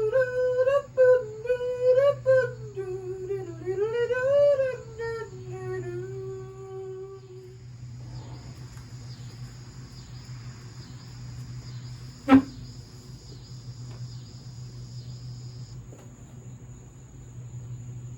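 A man humming a tune for about seven seconds, then a steady low electrical hum with a faint, evenly repeating chirping. One sharp click comes about twelve seconds in.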